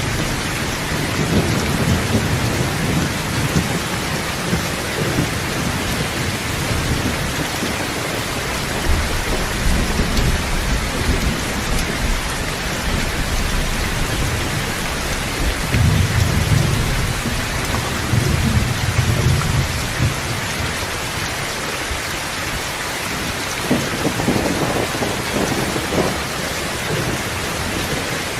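Steady heavy rain hissing, with low rolls of thunder swelling up several times, loudest about two-thirds of the way through.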